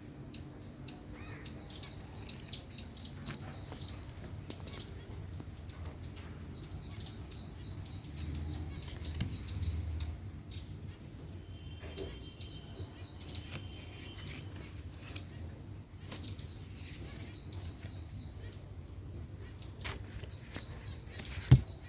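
Small birds chirping in short, high, repeated notes, with two brief whistled notes about halfway through. A single loud knock comes near the end.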